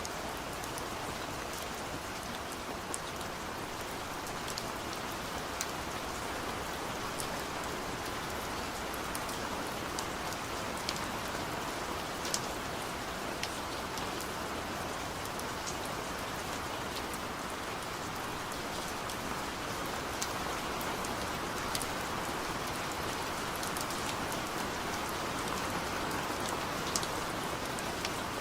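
Steady rain falling, with scattered sharp drops tapping on a hard surface.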